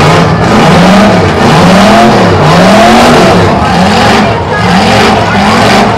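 Demolition derby car engines revving up and down over and over, loud, with several engines overlapping.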